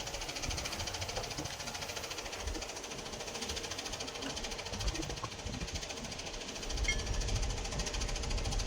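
Steady, fast mechanical clatter of a machine running, with a low rumble that swells about seven seconds in.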